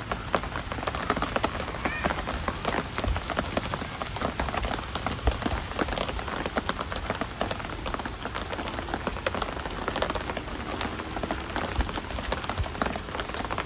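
Steady rain falling, with many individual raindrops ticking sharply on nearby surfaces.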